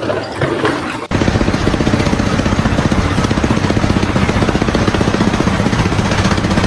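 A machine running hard with a fast, even pulsing, starting abruptly about a second in and cutting off suddenly at the end.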